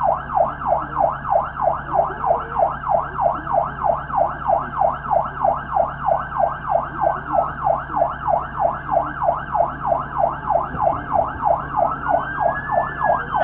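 Police car siren in yelp mode, a fast up-and-down warble of about three to four sweeps a second. In the second half a second siren's slower rise and fall sounds faintly behind it.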